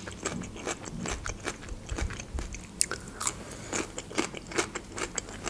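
Crunchy chewing of fresh cucumber slices close to the microphone: an uneven run of short, crisp crunches.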